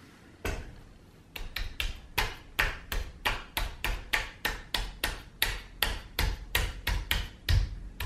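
Rapid hand taps on an air rifle, knocking a tight-fitting 3D-printed suppressor down into the gun's shroud to seat it. One tap comes first, then a steady run of about twenty sharp taps, roughly three a second.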